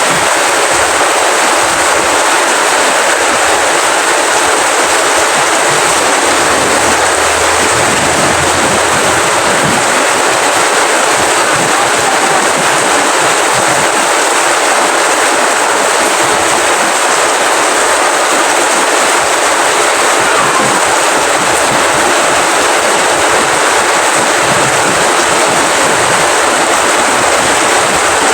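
Steady rainfall: a dense, even hiss of raindrops that holds at one level throughout.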